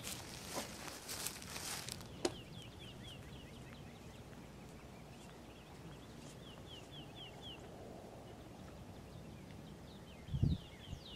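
Songbird calling in runs of quick, short downward-slurred chirps, several runs of about four or five notes each. Over the first two seconds there is a rustling, with one sharp click about two seconds in, and a low thump near the end is the loudest sound.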